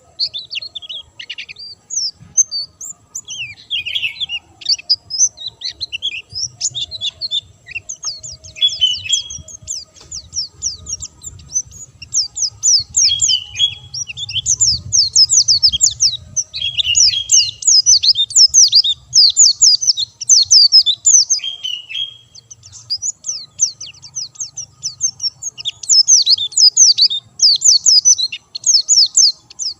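White-eye (pleci) singing on and on: a fast, high twittering run of short, quickly falling chirps with brief pauses, densest in the middle stretch.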